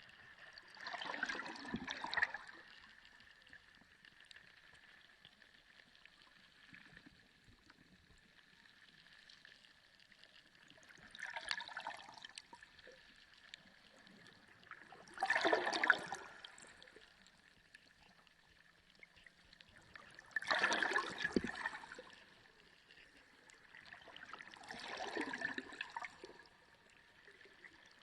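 Underwater ambience of the sea: a faint steady hiss broken by five bubbling, gurgling surges, each lasting about a second and coming every four to ten seconds.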